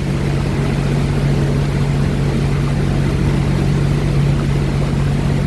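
Boat engine running steadily under way: a constant, even drone with no change in pitch.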